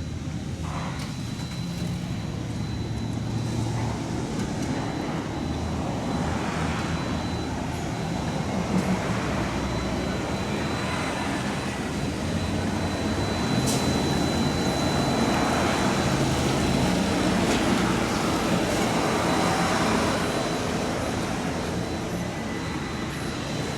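Heavy diesel engine running with a continuous low rumble and noise that builds slowly and is loudest in the middle stretch, with a few faint clicks and knocks.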